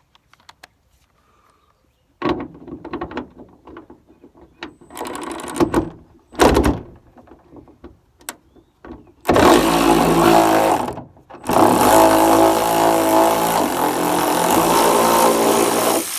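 Ratchet and socket clicking in quick runs as a 13 mm nut is worked loose, with a few knocks. About nine seconds in, a loud motor starts running steadily, pauses briefly and carries on.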